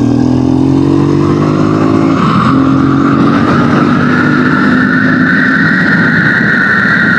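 Honda dirt bike's single-cylinder four-stroke engine running under way, its note climbing slowly. About two seconds in the note dips briefly, as at a gear change, then holds steady.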